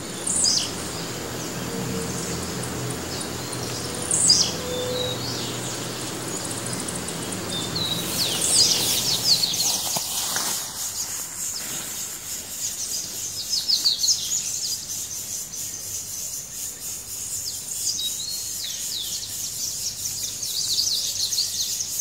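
Wild forest birds calling: repeated quick, high falling whistles, thickening into a dense chatter of chirps from about eight seconds in. A low steady hum underneath fades out about ten seconds in.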